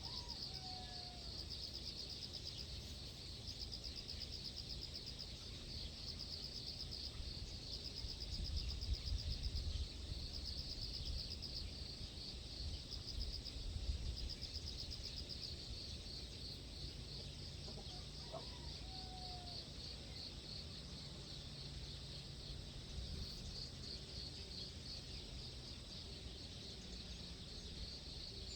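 Insects trilling in a high, pulsing chorus that comes in repeated phrases, over a low, uneven rumble of wind or surf. A bird gives a short falling call twice, near the start and about two-thirds of the way through.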